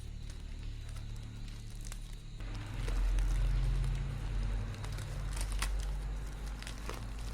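Packaging crinkling and rustling as a stationery pack is handled and opened, starting a couple of seconds in, with a few sharp crackles later on, over a low steady hum.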